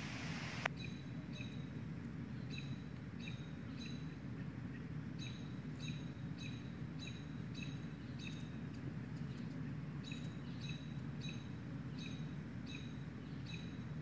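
A bird chirping the same short, high call over and over, about twice a second, over a steady low background rumble.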